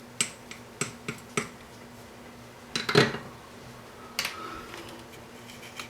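Small hard objects clicking and tapping on a workbench: a few quick clicks in the first second and a half, a louder clatter near the middle, and one more tap a second later, as wires and tools are handled.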